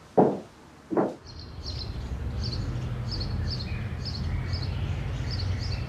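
Two footsteps, then outdoor ambience: a small bird chirping over and over in short high notes, about two or three a second, over a steady low rumble.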